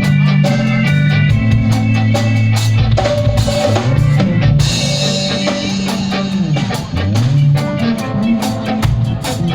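Live band jamming with the drum kit to the fore, snare and bass drum hits throughout, and low notes sliding up and down in pitch underneath. A bright wash sits on top about halfway through.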